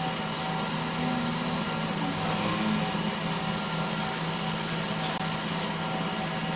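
Sandpaper rubbing against a redwood piece spinning on a large wood lathe, a loud hiss in long strokes over the steady hum of the lathe. The hiss breaks off briefly about three seconds in and stops near the end while the hum goes on.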